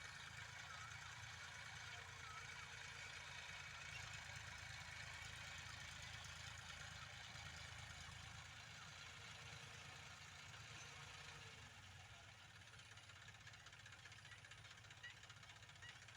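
Tractor diesel engine running steadily, heard faintly, its low pulsing easing down a little near the end.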